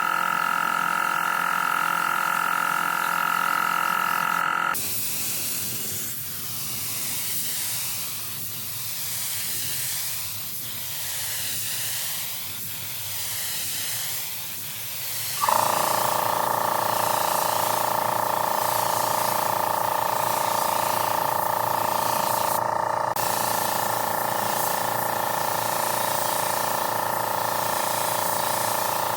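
A workshop machine's steady whine, broken about five seconds in by some ten seconds of loud air hiss that swells and fades about once a second. The whine comes back with a sudden jump and runs steadily after that.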